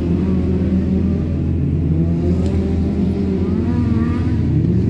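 Several wreck-race cars' engines running and revving together, making a loud, steady drone whose pitches rise and fall.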